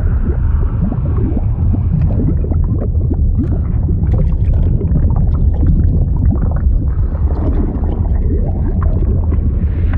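Fluid sound effect: a deep, steady underwater-like rumble with continual bubbling and gurgling, many small bubbles rising in pitch over it.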